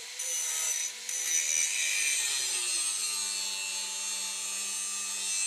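Angle grinder working steel plate, a steady high-pitched grinding hiss over the running motor, with a brief break about a second in; the grinding stops abruptly at the end.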